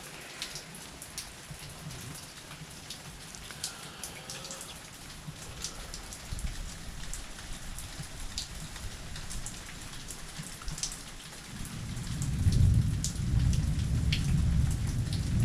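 Steady rain falling, with many sharp drops striking nearby surfaces. About three-quarters of the way through, a low rumble of thunder begins and builds louder.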